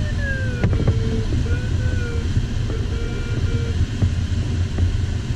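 Airflow noise in the cockpit of an LS4 sailplane in flight, a steady rumble. Over it an electronic variometer sounds pitched tones that slide and step in pitch and break off and restart, the audio sign of the glider's climb or sink in rough air.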